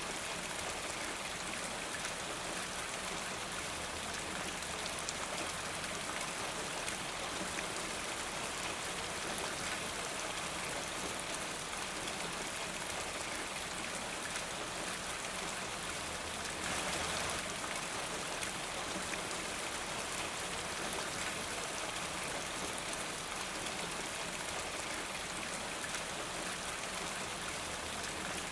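Steady rain falling: a constant hiss of rain with fine scattered drop ticks, swelling slightly louder for about a second around seventeen seconds in.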